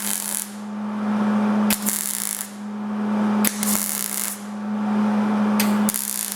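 Three short tack welds on sheet-metal door panel, each a crackling burst of the welding arc lasting under a second, over a steady hum.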